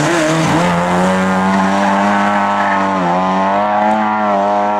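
Lada race car's four-cylinder engine running hard at high revs, with a brief dip in pitch about three seconds in before it climbs back.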